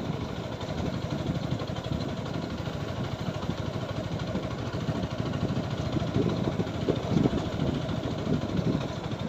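Single-cylinder engine of a TVS Apache 4V motorcycle running while the bike is ridden over a broken, rutted road. It makes a steady, uneven low rumble, with irregular louder jolts.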